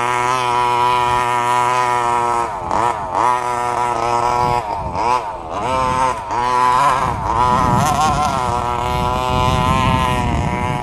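Gas-powered FG two-wheel-drive stadium truck (large-scale RC) with its small two-stroke engine running at a steady pitch, then revving up and down again and again with short throttle blips from about two and a half seconds in, on only a little throttle.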